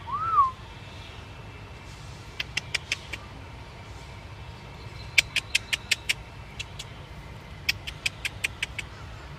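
A short whistle-like note that rises and falls, then three quick runs of sharp clicks, several to a run, over a steady low hum.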